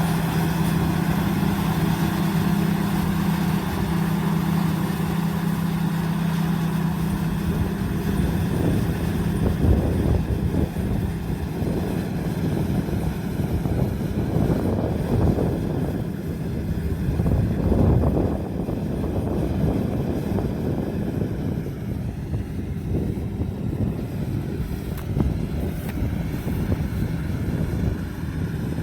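Combine harvester's diesel engine running at work: a steady hum for the first third that gives way to a rougher, fluctuating rumble.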